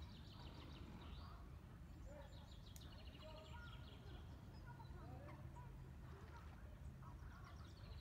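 Faint bird calls: rapid high chirping trills and short lower calls, over a steady low hum.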